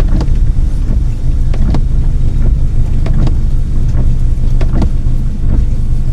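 Car driving, heard from inside the cabin: a steady low drone of engine and road noise, with short sharp knocks that come in pairs about every one and a half seconds.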